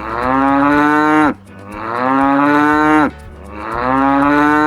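A cow mooing three times, each a long low moo that slides down in pitch as it ends.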